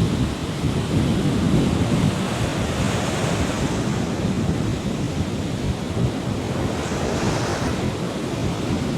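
Rough surf breaking and washing on the beach under strong wind, with wind buffeting the microphone in a steady low rumble.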